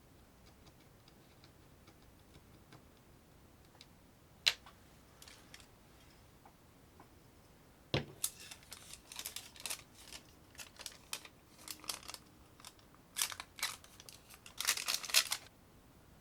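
A sharp click, then a louder click about halfway through, followed by a run of irregular scraping and rustling handling noises that is strongest near the end.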